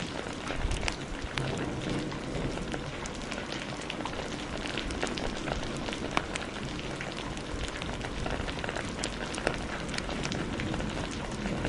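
Heavy rain falling steadily, mixed with the frequent sharp pops and crackles of a wood fire burning in a fireplace.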